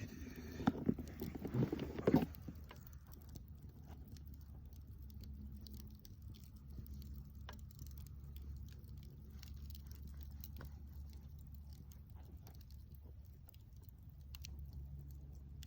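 Campfire crackling: scattered sharp pops and snaps over a low steady rumble, with a denser, louder run of cracks and knocks in the first two seconds.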